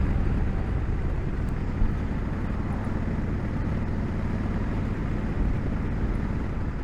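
2020 Honda Africa Twin DCT's 1084 cc parallel-twin engine running at a steady cruise, heard together with steady wind and road rush.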